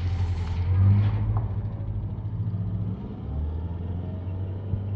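A car engine running with a low steady hum that dips in pitch about three seconds in.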